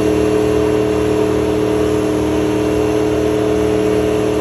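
Truck engine held at high, steady revs during a burnout, its pitch unchanging, over the noise of spinning tyres.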